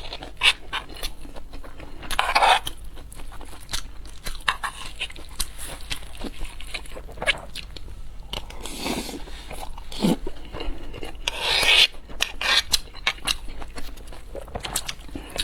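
Close-miked eating sounds: repeated crunchy bites and chewing, with a few louder crunches and slurps.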